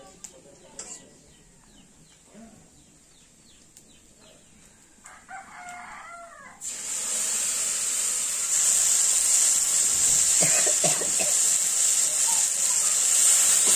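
A rooster crows once about five seconds in. Then loud sizzling starts abruptly and runs on: spice paste frying in hot oil in a steel wok over a wood fire, with a few knocks of the spatula partway through.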